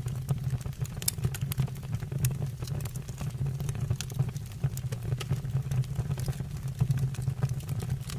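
Fire burning in a fireplace, with frequent irregular sharp crackles and pops over a steady low rumble.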